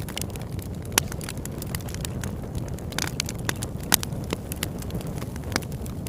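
Campfire burning steadily with a low rumble, crackling with sharp pops, the loudest about a second, three seconds and four seconds in.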